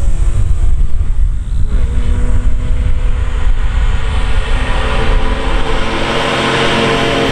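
Toyota JZX90 Mark II's 1JZ-GTE twin-turbo straight-six running through an aftermarket exhaust at steady revs, under a heavy deep rumble. The engine note settles in about two seconds in and grows louder toward the end.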